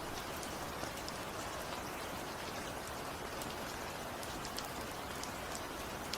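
Steady rain falling: an even, dense patter with scattered sharper drop ticks.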